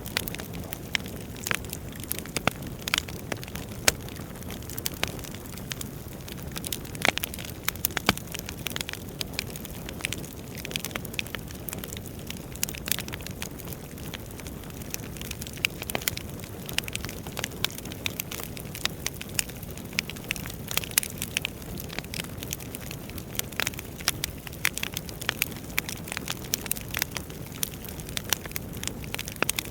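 Wood fire burning in a fireplace: a steady low rush of flame with frequent irregular crackles and sharp pops from the burning logs.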